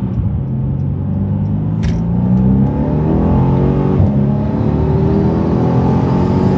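Mercedes-AMG C63 S's 4.0-litre twin-turbo V8 accelerating hard: the engine note climbs from about two seconds in, drops briefly at an upshift about four seconds in, then climbs again.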